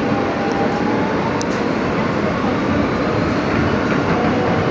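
R160B subway car running at speed: a steady loud rumble of wheels on rail with a faint high whine, and one sharp click about a second and a half in.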